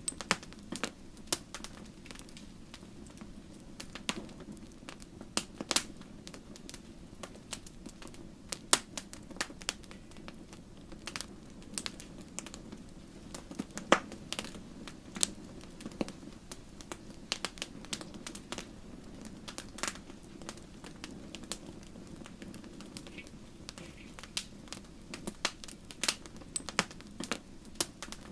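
Wood fire in a fireplace crackling: irregular sharp pops and snaps of burning firewood over a steady low rush of the flames.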